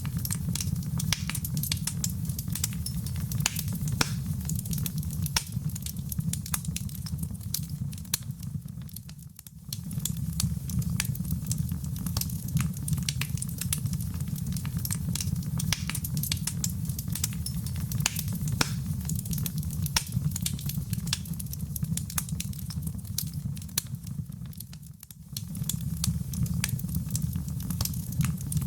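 Fire crackling steadily, with a low rumble under dense sharp pops and snaps. The sound dips briefly twice, about fifteen seconds apart, then picks up again.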